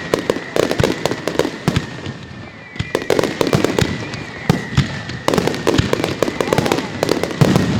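Fireworks display: rapid volleys of bangs and crackling reports, coming in waves about every one to two seconds.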